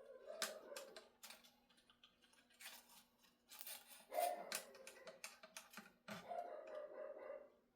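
A dog whining in several drawn-out high whines, with scattered light clicks and taps between them.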